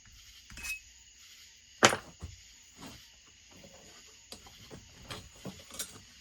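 Scattered knocks and clinks of hand tools being picked up and set down on a workbench while looking for the right tool. The loudest is a sharp clack about two seconds in.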